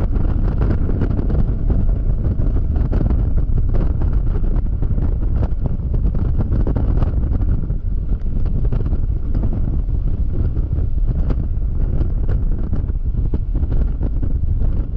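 Wind buffeting the action camera's microphone on a Yamaha XMAX scooter riding at speed: a loud, steady rush with many sharp ticks scattered through it.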